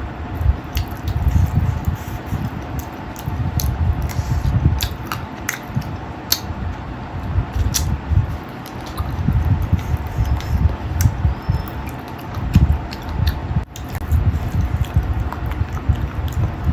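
Close-miked chewing and wet mouth sounds of a person eating a chicken-feet and rice meal: irregular soft low thuds of chewing with scattered sharp wet clicks and smacks.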